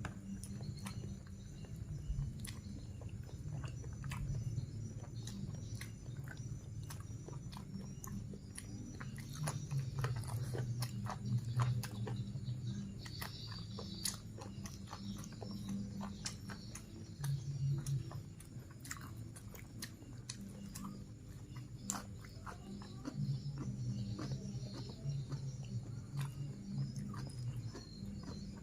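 Close-up chewing and biting of someone eating chicken and meatballs. There are many small wet clicks and smacks of the mouth at an irregular pace, over low, muffled chewing sounds that come and go.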